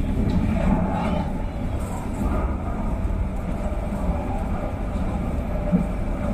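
LRT Line 1 light-rail train running, a steady low rumble with a single short knock near the end.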